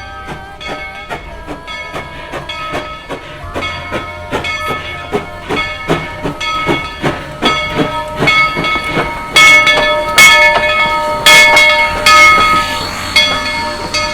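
Steam locomotive chuffing in a steady rhythm, growing louder as it comes closer, with loud bursts of steam hiss near the end.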